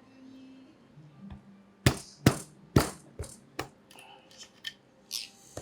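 A run of sharp taps or knocks on parts of a Porsche 964 Turbo engine during assembly: four loud strikes about two to four seconds in, then a few softer ones near the end.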